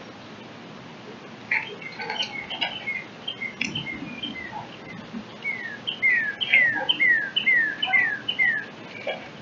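Birds calling: a jumble of short chirps, then a run of about eight downslurred whistled notes at roughly three a second.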